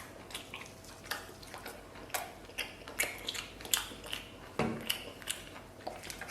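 Light clicks and taps of tableware being handled, scattered at an uneven pace, with one duller knock about four and a half seconds in.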